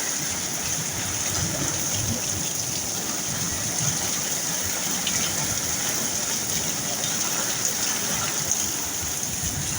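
Steady heavy rain falling and splashing, an even hiss of drops with scattered small ticks.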